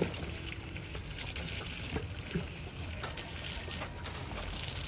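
Faint running water, with a few light clicks and knocks scattered through it.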